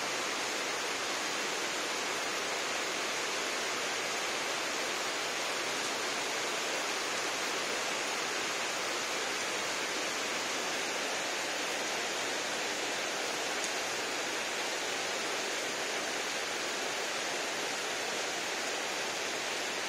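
Heavy rain falling steadily on a gravel yard and puddled ground: a dense, even hiss that does not change.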